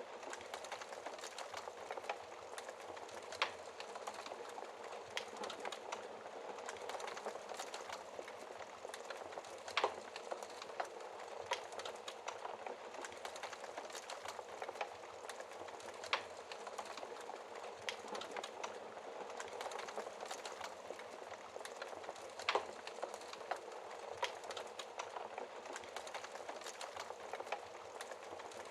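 Wood fire burning in a fireplace: a steady hiss of flames with frequent irregular crackles and pops from the burning logs, a few of them sharper and louder.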